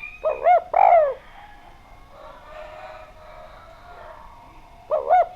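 Spotted dove (derkuku) cooing. Its phrase is two short arched coos and a longer falling note, given near the start and again near the end.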